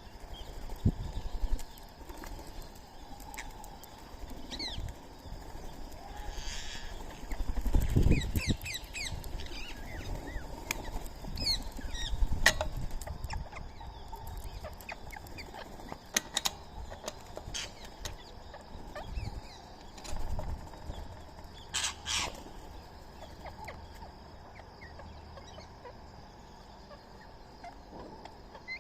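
Birds chirping and calling, a run of short high chirps with a louder sharp call about two-thirds of the way through, over a few low thumps.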